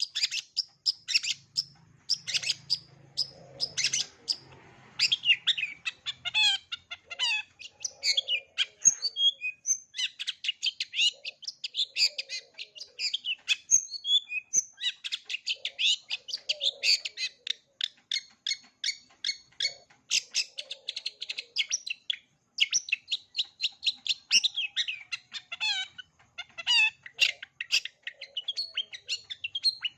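Long-tailed shrike (cendet) singing a long, rapid run of varied chattering and whistled notes, packed with mimicked calls of other birds.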